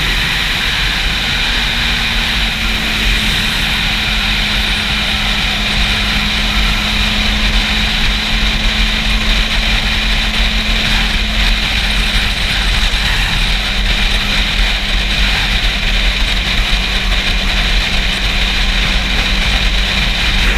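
Wind buffeting a GoPro's microphone on a moving Yamaha YZF-R6, with the bike's inline-four engine holding a steady drone underneath.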